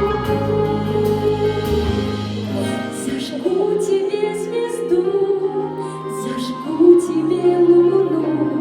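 A woman singing a slow, tender song over instrumental accompaniment, holding long notes with vibrato.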